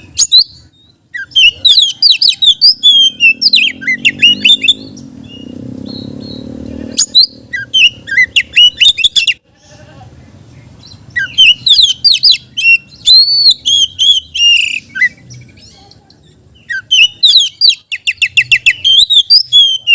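Oriental magpie-robin singing loud, varied phrases of fast whistled and slurred notes in three long bursts. The last burst ends in a rapid run of repeated notes.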